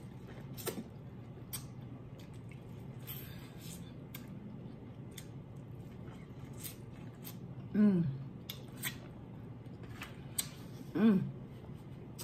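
Close-up eating sounds of corn on the cob being bitten and chewed, with scattered crisp crunches and wet mouth clicks. Twice in the second half comes a short hummed 'mm' of enjoyment.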